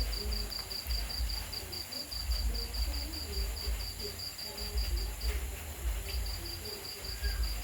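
A cricket chirping at night, a steady train of high pulses about five a second that pauses briefly a little past five seconds in, over a low rumble.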